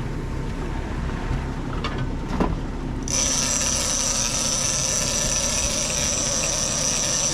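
Big-game fishing reel's drag starts buzzing about three seconds in and holds steady and high as a hooked large fish pulls line off, over the low running of the boat's engine. A single knock comes just before it starts.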